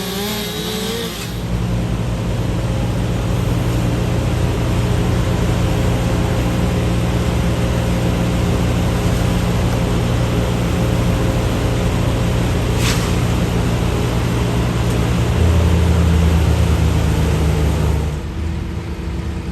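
A large engine of heavy machinery running steadily, growing louder about fifteen seconds in, then dropping back about two seconds before the end.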